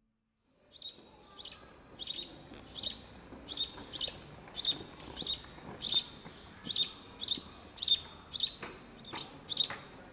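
A small bird calling in a steady series of short, sharp chirps, two or three a second, each sweeping down in pitch.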